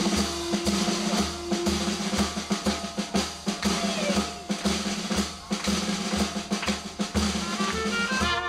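Dixieland jazz band's drum kit taking a break, with snare rolls and rimshots over a steady low bass pulse of about two beats a second; the horns come back in near the end.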